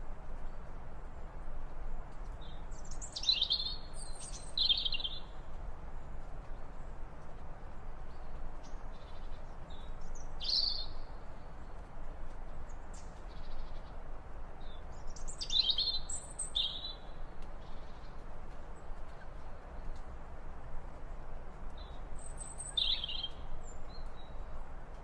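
Wild birds calling in short, high chirps that come in small groups every few seconds, over a steady low outdoor background hiss.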